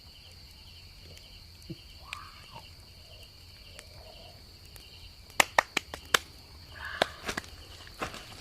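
Insects droning steadily, with a pulsing chirp under it. A quick series of sharp clicks comes about five and a half seconds in, and a few more near the end.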